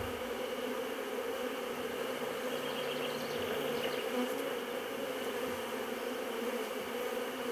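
Honeybees humming steadily in a mass around an open hive, a colony stirred up by the inspection.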